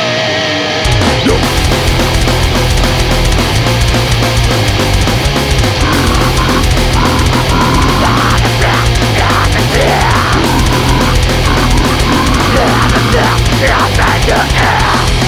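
Heavy metal: a held, wavering distorted guitar note gives way, a little under a second in, to the full band playing loud and fast, with dense drumming, heavy low bass and distorted guitars.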